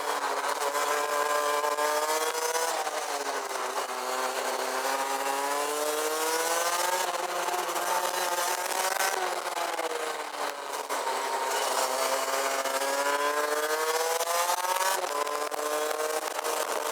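Rotax Max DD2 kart's 125 cc single-cylinder two-stroke engine heard onboard, its revs falling and climbing in turn through corners and straights, with sudden drops in pitch about halfway through and again near the end. Wind noise hisses over the microphone throughout.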